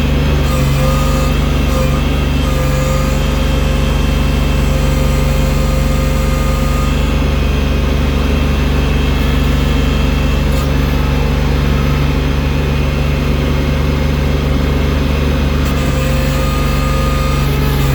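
Engine of a snow-clearing machine fitted with a loader bucket, running steadily under load, a deep drone with a faint steady whine above it.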